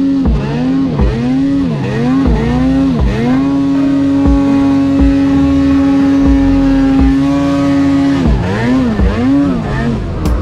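Snowmobile engine at high revs: several quick throttle lifts and reapplications, then held at a steady pitch for about five seconds, then more quick lifts near the end.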